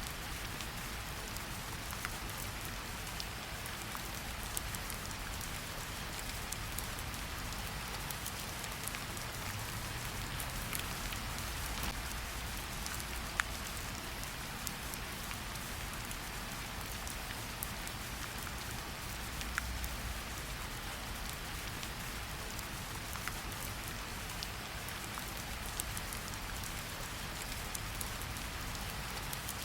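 Steady rain falling in a forest, an even hiss with scattered close drops tapping now and then.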